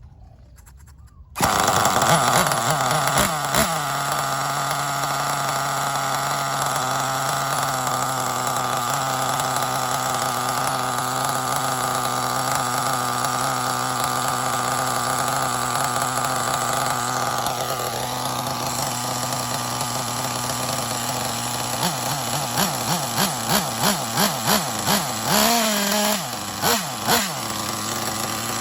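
Intech BR-6 Alpha .28 two-stroke nitro glow engine running at a steady high speed, coming in suddenly about a second in. Near the end it is revved in a quick run of short throttle blips, about two a second, then settles back to a steady run.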